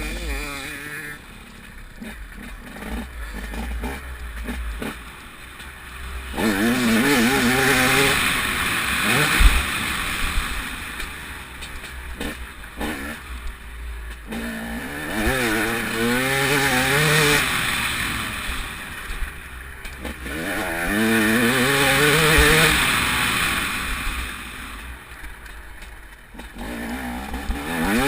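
TM 300 two-stroke motocross bike's single-cylinder engine, revved hard three times with the pitch climbing and dropping through the gears and quieter off-throttle stretches in between. A loud rush of wind on the microphone runs over the engine.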